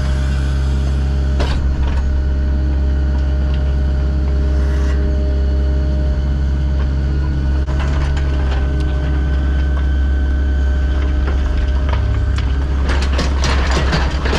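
A heavy machine's engine running steadily at a constant speed. Near the end, a dense metallic rattling and clanking sets in.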